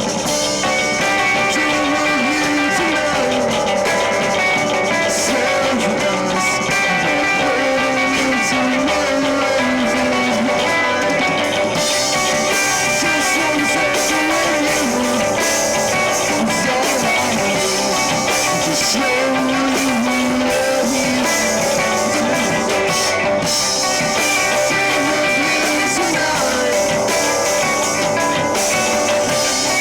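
Rock band playing live: electric guitars over a drum kit, loud and steady, with the cymbals coming in heavier about twelve seconds in and again near the end.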